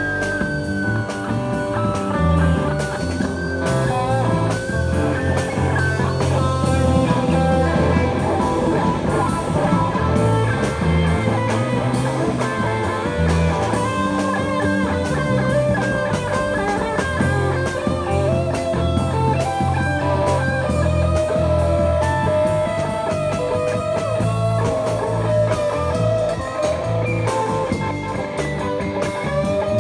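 Rock band playing an instrumental stretch: an electric lead guitar holds and bends long notes over bass and drums.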